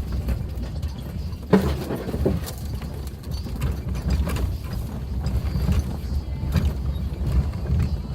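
Suzuki Jimny driving over a rough forest track: a steady low engine and road rumble with scattered knocks and rattles from the body and suspension over bumps, and one sharp knock about a second and a half in.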